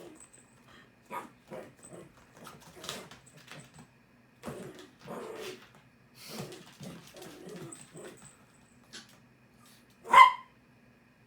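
Small dogs, a miniature pinscher and a chiweenie, making a string of short, quiet vocal and moving sounds, then one loud, sharp bark about ten seconds in.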